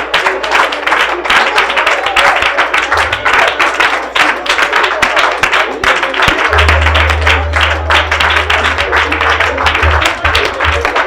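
Church prayer music with rhythmic hand clapping, under a congregation praying aloud all at once; a low bass line comes in about two-thirds of the way through.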